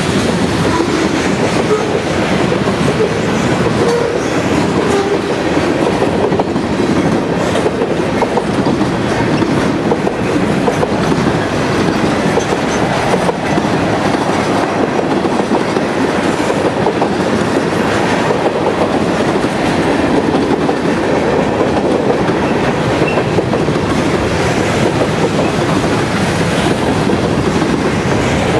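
Freight train cars rolling steadily past, mixed covered hoppers, tank cars and boxcars, their steel wheels running on the rails in a continuous, even noise.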